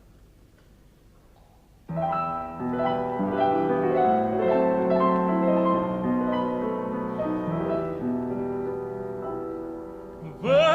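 Piano introduction to a song, starting about two seconds in after faint hiss, with chords of sustained notes. A tenor voice comes in with vibrato at the very end.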